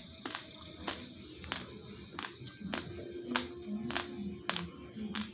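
Raw basmati rice grains being crunched between the teeth, a crisp crack about every half second to second in a steady chewing rhythm.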